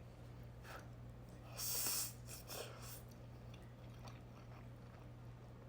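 Quiet chewing of a mouthful of instant noodles, with a short breathy noise about one and a half seconds in. A steady low hum runs underneath.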